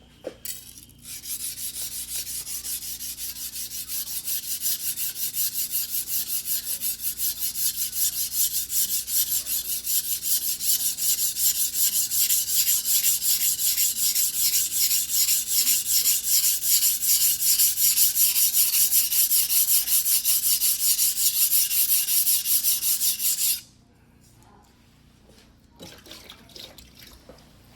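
Single-bevel white-steel fugubiki sashimi knife being hand-sharpened on a wet whetstone: quick, even back-and-forth strokes of the blade scraping across the stone, several a second. The strokes grow louder over the first several seconds and stop suddenly about five seconds before the end, with a few faint scrapes after.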